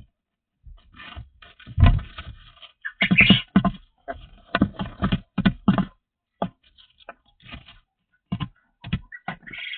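Irregular clattering and scraping: a run of short knocks, several a second at times, with scrapes between them.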